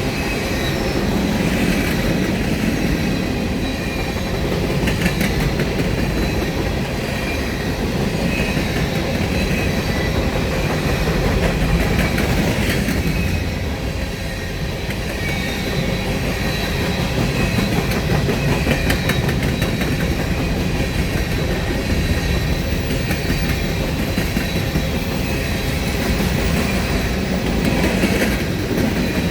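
Empty freight cars of a grain train rolling steadily past, wheels clicking over rail joints in short runs, with thin steady high ringing from the wheels on the rails.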